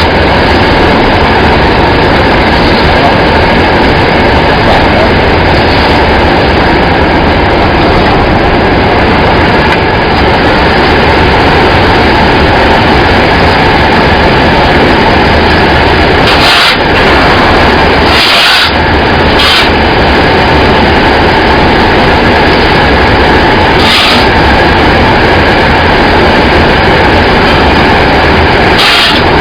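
Rice husk carbonization furnace machinery running with a loud, steady mechanical noise and a low hum. A few short knocks come through, about two-thirds of the way in and near the end.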